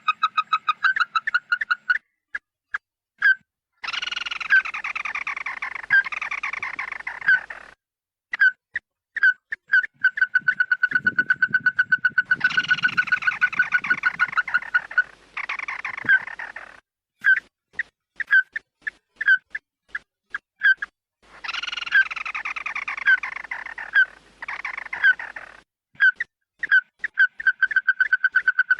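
Calls of the bird sold as 'chim mắt đỏ' (red-eyed bird) in a lure recording: fast runs of short, identical notes at one pitch alternate with harsher chattering phrases that fall in pitch, with brief pauses between.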